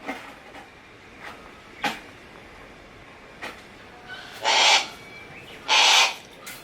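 Harris's hawk calling: two loud, harsh calls a little over a second apart in the second half, with a few faint short sounds before them.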